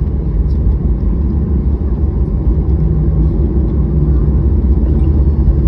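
Steady, loud low rumble heard inside an airliner's cabin just after landing: the engines and the wheels on the runway as the jet slows.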